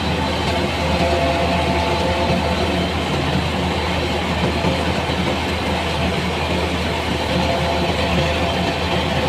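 Heavy engine-driven machine running steadily at constant speed, a continuous low drone with a few steady higher tones over it.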